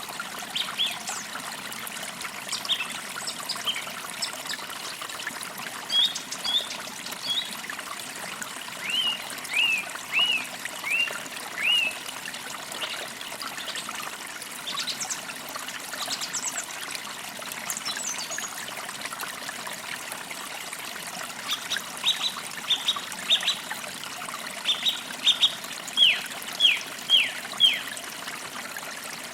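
Forest creek trickling steadily, with birds chirping over it. A short series of down-slurred chirps comes about a third of the way in, and a louder, quicker run of them near the end.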